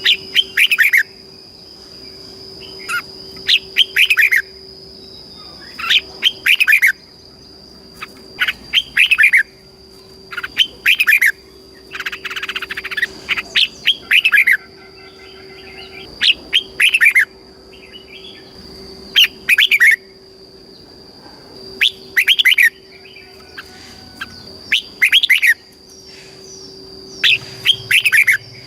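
Red-whiskered bulbul singing: short, loud, warbling phrases of falling notes, repeated about every two to three seconds. A steady thin high-pitched whine runs underneath.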